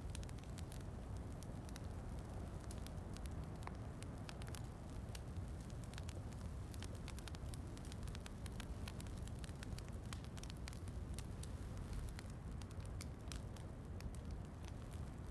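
Wood fire crackling with frequent sharp pops, over a steady rush of falling rain.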